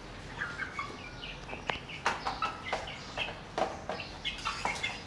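A flock of young chickens, about twelve weeks old, cheeping and peeping in many short, high calls, with sharp clicks mixed in.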